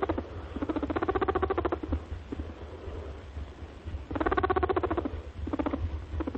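An animal calling in a series of rapidly pulsed, pitched bursts, each a second or shorter, over a low steady hum.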